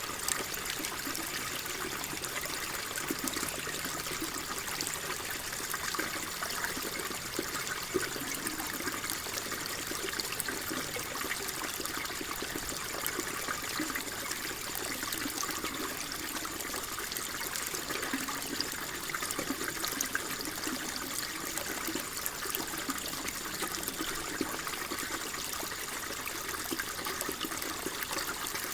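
Water flowing and trickling steadily, a continuous babbling splash with fine droplet crackle.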